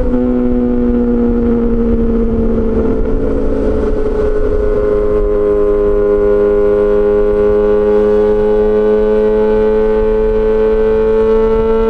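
Yamaha XJ6 S's inline-four engine with an SC-Project exhaust, running at a high, steady rev with a tone almost like a siren. The pitch eases down slightly and then climbs slowly back up. A brief rush of noise comes around two to four seconds in.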